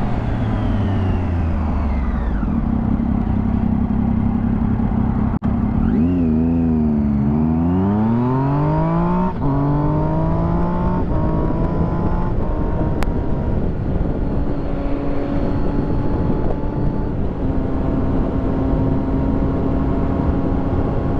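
Triumph Daytona 675 three-cylinder engine under way with steady wind rush over the microphone. About six seconds in the revs dip, then climb hard, dropping sharply at quick upshifts around nine, eleven and twelve seconds in, as in clutchless shifting, before settling into a steady cruise.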